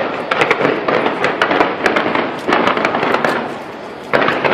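Fireworks display going off: dense rapid crackling and popping bursts, with a short lull and then a fresh loud volley near the end.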